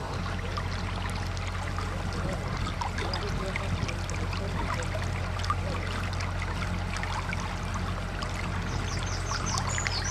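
A narrowboat's engine running with a steady low hum, while water splashes and trickles along the hull as the boat moves through the canal.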